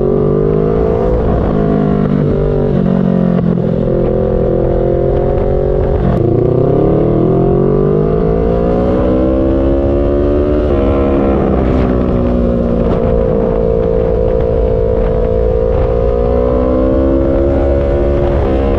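Kawasaki Z650's parallel-twin engine running under way. Its pitch dips about six seconds in, then climbs steadily for about four seconds, breaks off briefly near the eleven-second mark, and holds fairly level after that.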